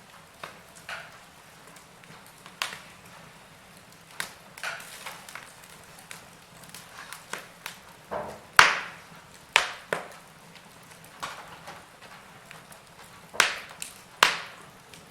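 Wood fire in a fireplace crackling: irregular sharp pops and snaps over a faint steady hiss, with the loudest pops about halfway through and near the end.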